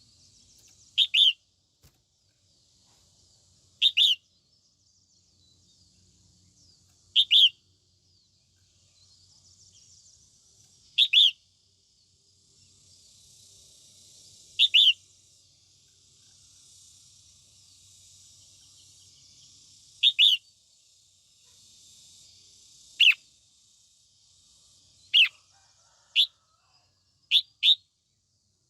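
Female red-whiskered bulbul giving short, sharp, loud call notes, mostly doubled, about every three to four seconds and then faster near the end, as a hen calls to rouse males.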